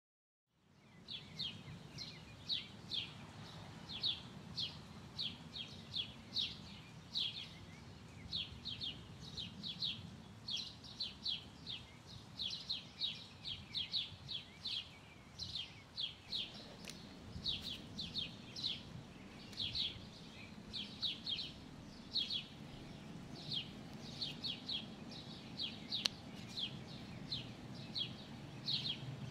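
Small birds chirping: many quick, high chirps in irregular bursts over a steady low background rumble, fading in just after the start.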